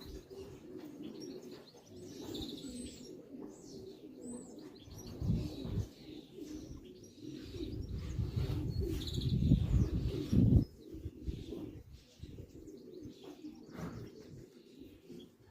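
Racing pigeons cooing steadily in the loft, with small birds chirping now and then. A louder low rumbling noise comes in about five seconds in and again for a few seconds in the middle.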